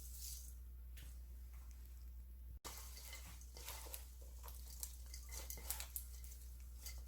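Faint wet squishing and rustling of garlic chives and onion being tossed by hand with chilli-powder seasoning, with small scattered ticks over a steady low hum.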